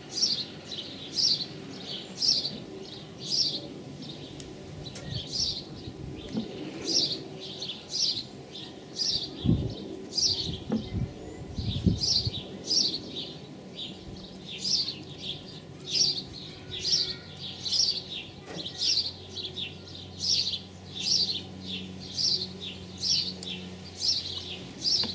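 A bird chirping over and over, short falling chirps coming more than once a second, with a few low knocks in the middle.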